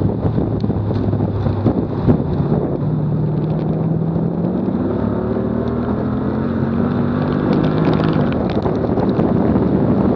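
Car engine and exhaust pulling hard under acceleration, the note rising steadily in pitch for several seconds and breaking off at an upshift about eight seconds in. Heavy wind buffeting on a bumper-mounted microphone runs underneath.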